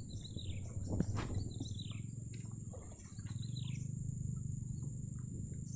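A bird calling with short falling chirps, about three times a second and a half apart, over a steady high-pitched insect drone in swamp grassland.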